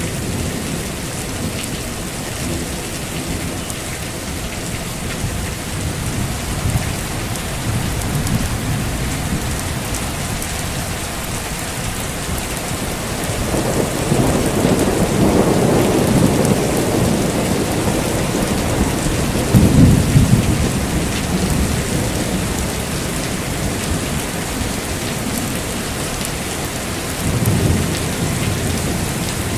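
Heavy rain falling steadily, with thunder rolling through it: a long low rumble builds about halfway through, the loudest peal comes about two-thirds of the way in, and another rumble starts near the end.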